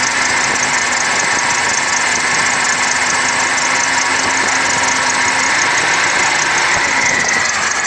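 A 1998 Chevy Silverado's 454 big-block V8 running steadily, held at raised revs so the water pump circulates water through the engine block and heater core during a cooling-system flush.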